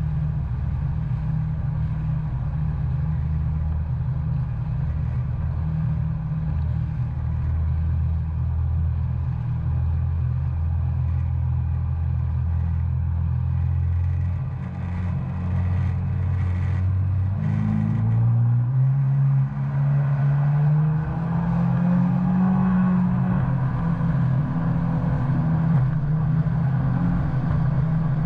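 Engine of a 2019 Yamaha FX SVHO WaveRunner, a supercharged four-cylinder, running steadily at cruise. About two-thirds of the way through it speeds up, rising in pitch in a couple of steps, and holds the higher pitch.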